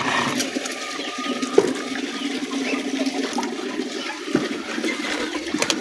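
Liquid pouring and splashing in a steady stream, with a few small knocks.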